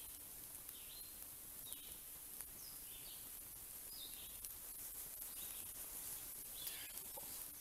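A bird calling over and over with short, high chirps, roughly one every half second to second, over a steady high hiss. A few faint crackles come from the wood campfire.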